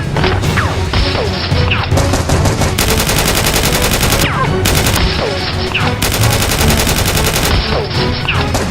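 Rapid automatic gunfire sound effects: a dense, continuous stream of shots, with brief falling whistles every second or two.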